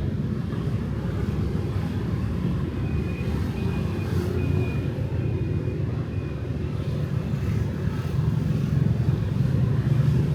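Steady street traffic of motorbikes and cars, a dense low engine rumble that grows a little louder near the end, with a faint thin high tone sounding in short pieces midway.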